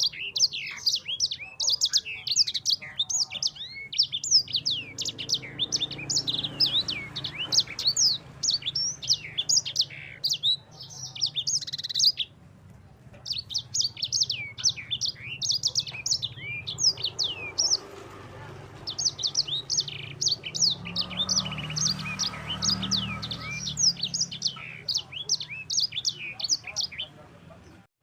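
Yellow-fronted canary singing a long, rolling song of rapid, high, down-slurred notes. It comes in three long phrases with short breaks about 12 and 18 seconds in. A faint low hum lies underneath.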